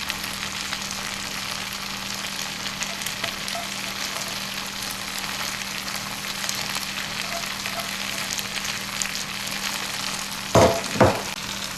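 Vegetable Hakka noodles sizzling steadily as they stir-fry in a hot pan, with two short loud knocks near the end.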